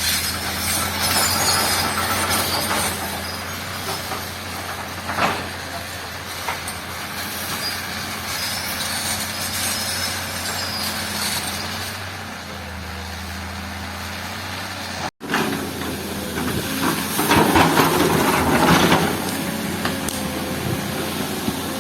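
Diesel engine of a heavy earthmoving machine running steadily while it works, with a noisier, louder stretch near the end. It cuts out for an instant about two-thirds of the way through.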